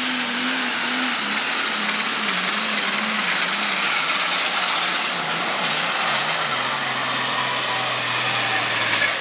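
Super stock pulling tractor's turbocharged diesel engine at full power during a pull, with a high turbo whine over heavy engine noise. The engine note wavers, then drops sharply about six and a half seconds in.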